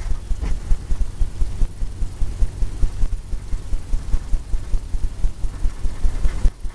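Paintbrush scrubbing oil paint onto a stretched canvas in quick circular strokes: a rapid, uneven low rubbing and thudding that stops briefly near the end.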